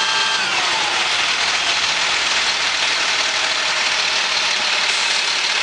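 GMC Topkick side-loader garbage truck running: a multi-tone whine falls in pitch within the first second as the revs come down, then the truck runs steadily at idle.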